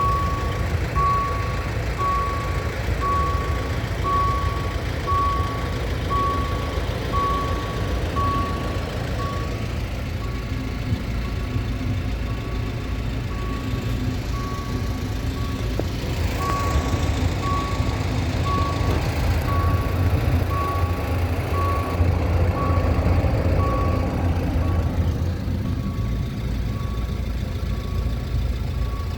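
Diesel passenger train's engine running with a low rumble that swells partway through, while a high electronic beep repeats about one and a half times a second, pausing briefly midway.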